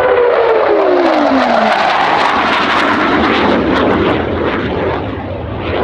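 Hawker Hunter F.6A's Rolls-Royce Avon turbojet going past loud, with a whine that falls in pitch over the first two seconds as the jet passes. Loud jet noise follows and eases off near the end.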